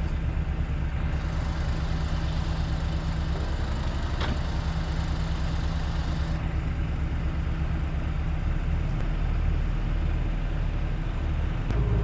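Large diesel truck engine running steadily near idle with a fast low throb, getting a little louder and deeper about two-thirds of the way in.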